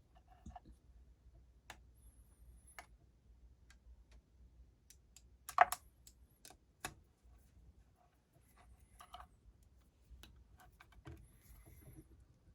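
Scattered light metallic clicks and taps of hand tools and small parts on a motorcycle engine during camshaft assembly, with one louder clank about five and a half seconds in.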